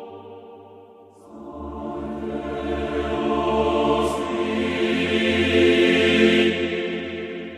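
Background choral music: voices holding long sustained chords. One phrase fades out about a second in, and a new one swells up and fades again near the end.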